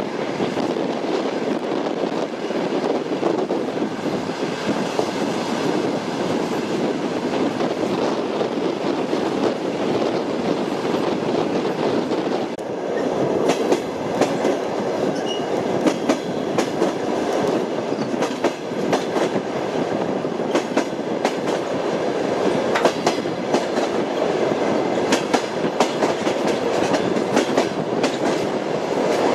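Train wheels rolling on the rails: a steady rumble, and from about halfway through, sharp clickety-clack as the wheels pass over rail joints.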